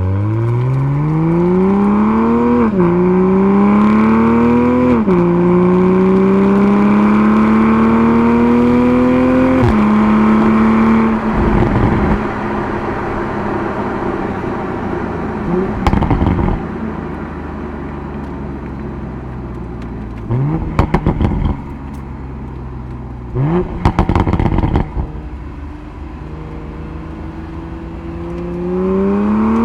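Toyota Supra engine accelerating hard through the gears, its note climbing and dropping sharply at each gear change, then easing off into a lower, steadier run. Short bursts of revs come twice in the second half, and it pulls hard again near the end.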